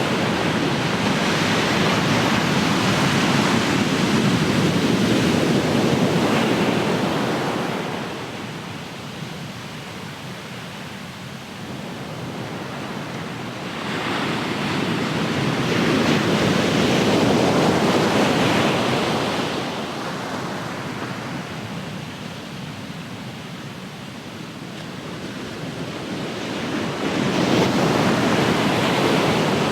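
Ocean surf: waves breaking and washing in, swelling and fading in slow surges about ten seconds apart, three times.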